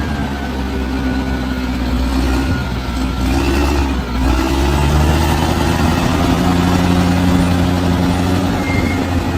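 Large crawler bulldozer's diesel engine running under load, its note rising and getting louder about four seconds in as it works harder.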